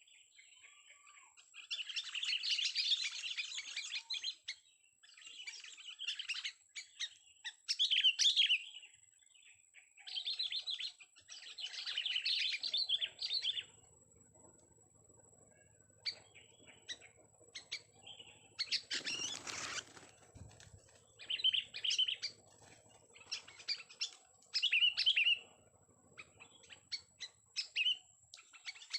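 Young sooty-headed bulbul singing in short chattering phrases of one to two seconds, broken by pauses. About two-thirds of the way through there is a brief rustling burst.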